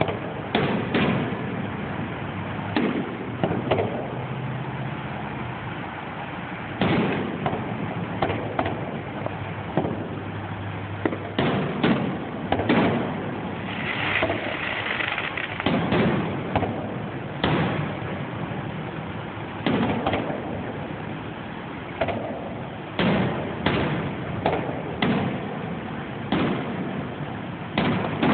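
Aerial fireworks shells bursting: an irregular string of sharp bangs, roughly one every second or two, some in quick pairs, over a steady background noise.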